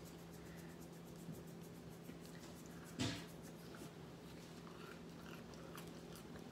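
Soft chewing and small mouth clicks from someone eating a whole marshmallow Peep, with one sharp thump about three seconds in, over a steady low hum.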